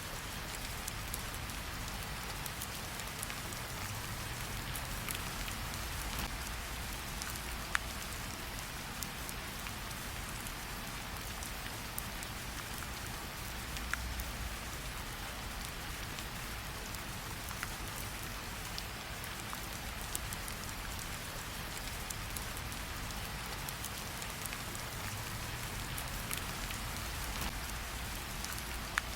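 Steady rain falling, an even hiss, with a campfire's crackling underneath and a few sharp pops standing out.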